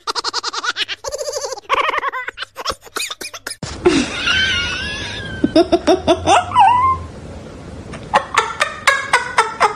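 Laughter in rapid, bubbling bursts, then a stretch of sliding, whining vocal sounds, with more short laughing bursts near the end.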